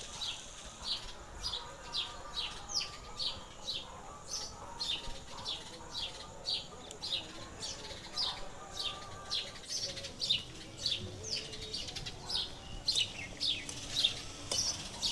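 Small birds chirping: a steady run of short, high, falling chirps, about two or three a second.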